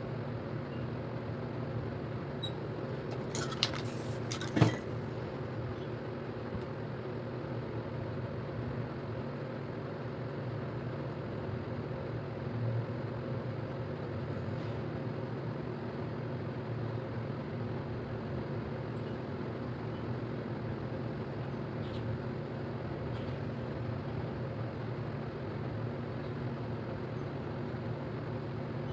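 A steady mechanical hum, with a few sharp clicks in quick succession about four seconds in.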